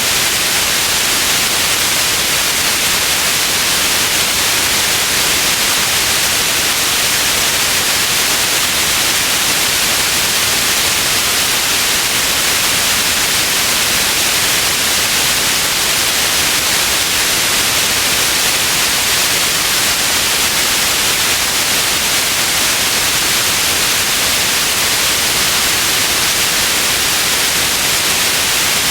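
Steady, even white noise: a constant hiss, strongest in the highs, with no changes or events.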